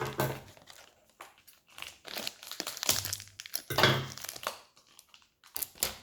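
Plastic toy packaging being handled and torn open, in irregular bursts with short pauses.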